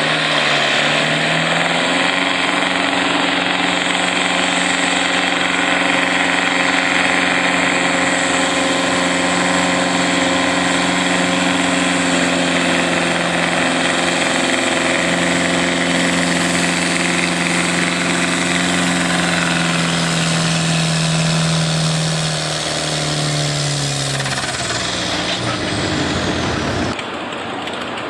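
Pulling tractor's engine running hard under load at a steady pitch for most of the run. Near the end it falls in pitch over a few seconds as the engine slows, then the sound cuts off abruptly.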